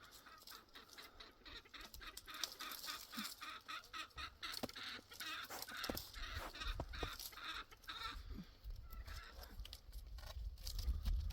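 Domestic fowl calling: a busy run of short, rapid calls that thins out after about eight seconds, with a low rumble rising beneath from about four seconds in.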